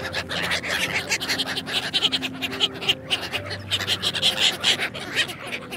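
Ducks quacking in quick, rough, overlapping calls, like a flock's chatter, over soft background music.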